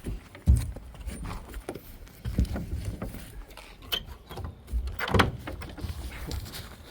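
Irregular knocks, clicks and low thumps of hands working on the fire truck's body and fittings, with the loudest thump about half a second in and a cluster of knocks around five seconds in.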